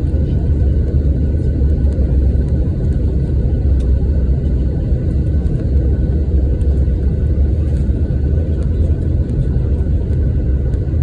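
Passenger airliner landing, its noise a loud steady low rumble with a faint steady whine above it.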